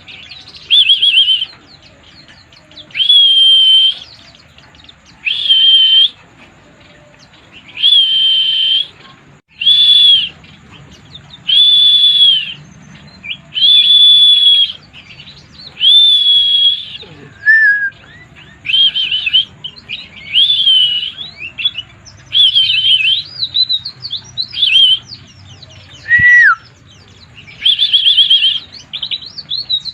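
White-eye (pleci) singing loud, high whistled phrases about a second long, repeating every two seconds or so. In the second half the song turns into choppier, faster twittering, with a short falling call near the middle.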